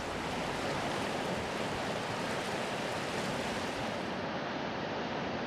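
Fast-flowing mountain river rushing steadily: a constant, even hiss of water.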